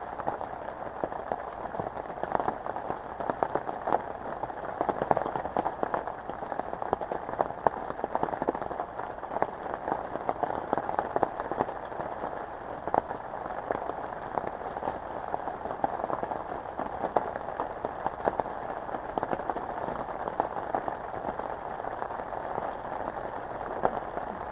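Heavy rain falling steadily on a tent, a dense patter of individual drops hitting the fabric.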